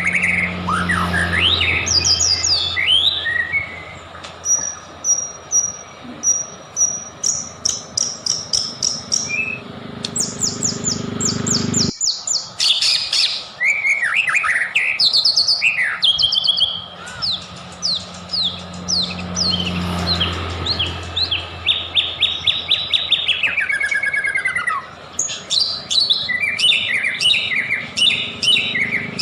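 White-rumped shama (murai batu) singing a fast, varied song: runs of rapidly repeated chirps, clear whistles and falling trills. The recording breaks off sharply about twelve seconds in and the song resumes at once.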